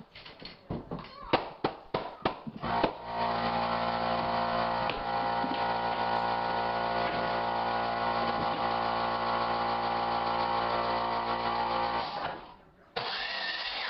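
A quick series of sharp knocks and clicks, then a motor-driven tool or machine starts, runs steadily for about nine seconds with a constant hum, and cuts off suddenly near the end.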